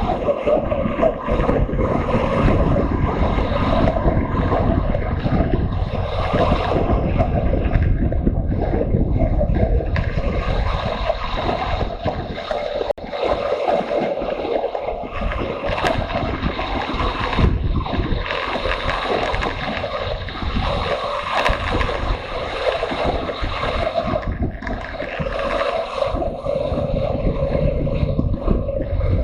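Motorcycle engine running on the move, mixed with wind rushing over the microphone.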